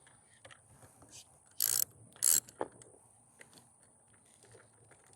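Socket ratchet clicking in two short, quick bursts, about two seconds in and again half a second later, as a skateboard axle nut is run on. Faint small clicks and taps come around them.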